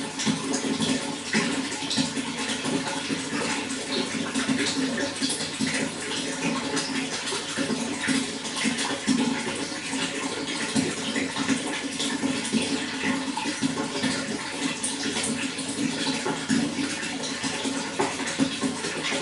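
Running water flowing steadily, a constant dense splashing with no pauses.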